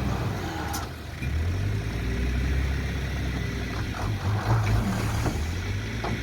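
Backhoe's diesel engine running in a low steady drone that grows louder about a second in, with a few short knocks over it.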